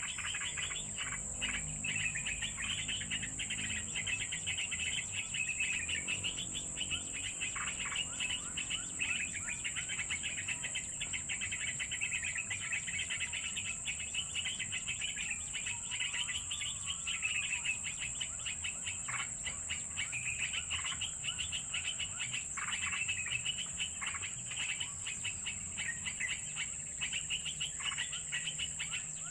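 Birds twittering and chirping, with many quick calls, over a steady high insect drone.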